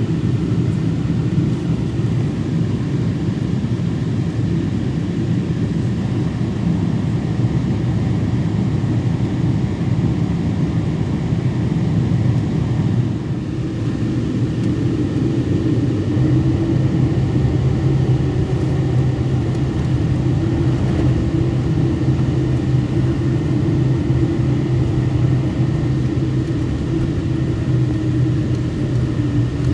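Boeing 777 cabin noise in flight: a steady, loud drone of engines and airflow heard from a window seat. About halfway through, a low hum within the drone grows stronger.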